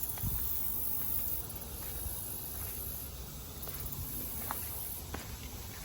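A high, steady insect chorus that swells and fades, over a low rumble of wind and handling on the microphone, with a few light clicks near the end.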